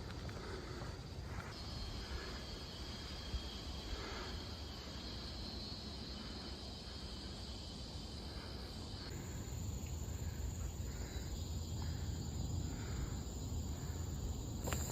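Rainforest insects droning with a steady high-pitched whine. About nine seconds in, one drone stops and a higher-pitched one takes over.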